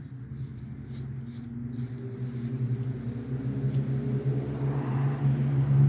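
A motor vehicle engine running nearby: a steady low hum that grows louder toward the end. There are a few light clicks in the first two seconds and another near the end.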